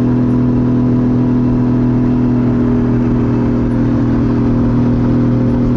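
Nissan 240SX drift car's swapped 2JZ-GTE turbocharged straight-six running under way at a steady engine speed, an even, unchanging tone with no revving.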